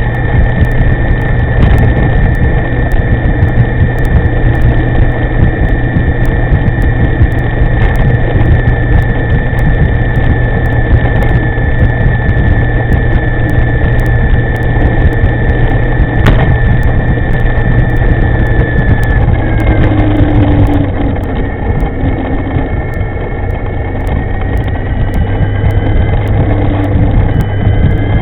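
Wind rushing over the microphone of a moving electric scooter, with a steady high whine that fades about two-thirds through and gives way to a few wavering, lower tones as the level drops slightly.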